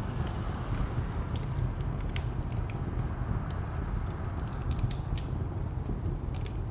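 Wood fire crackling with frequent sharp, irregular pops, over a steady low rumble of distant traffic.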